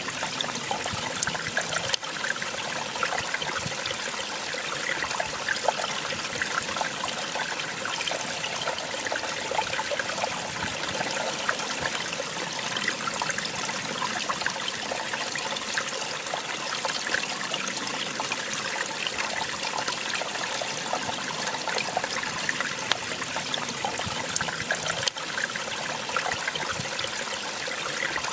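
Small waterfall splashing and trickling: a steady rush of falling water full of small splashes.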